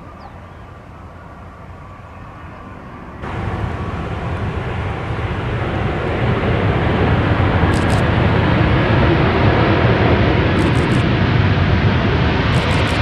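Airbus A319 jet engines, a loud rushing noise that begins abruptly about three seconds in, builds for a few seconds and then holds steady. Three short runs of quick high clicks sound over it in the second half.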